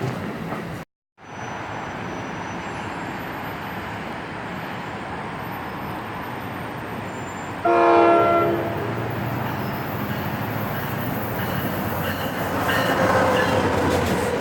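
Train running past with a steady rumble, and about eight seconds in a short single blast of a multi-note air horn, the loudest moment. The sound cuts out completely for a moment about a second in.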